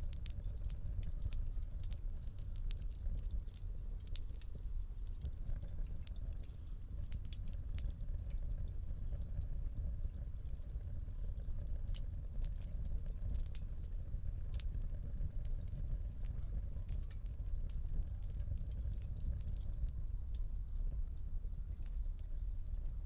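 Wood fire crackling in a fireplace: a constant scatter of small sharp pops and snaps over a steady low rumble.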